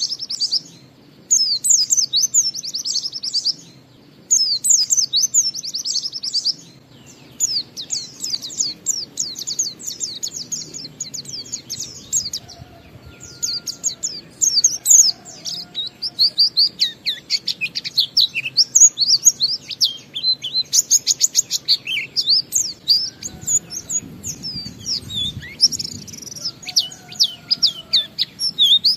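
White-eye (pleci) singing its long, fast twittering song: rapid high chirps in short bursts at first, then running almost unbroken. A few faint lower whistles join it about halfway through.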